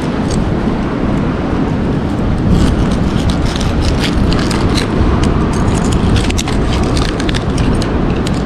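Wind buffeting the microphone over the rumble of ocean surf, a steady loud roar. From about two and a half seconds in, scattered sharp clicks and crackles come through on top.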